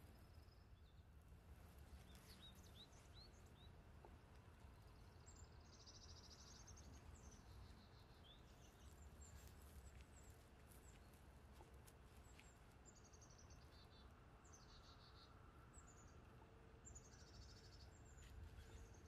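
Near silence: a faint low hum, with small birds chirping and giving short high trills every few seconds from about five seconds in.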